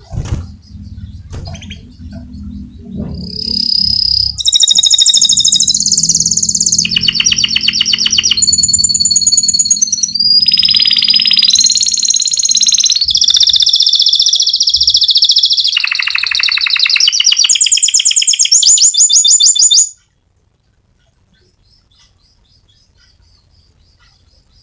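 A domestic canary sings a long, loud, high-pitched song of rapid rolling trills and whistled notes. The song cuts off suddenly about 20 seconds in.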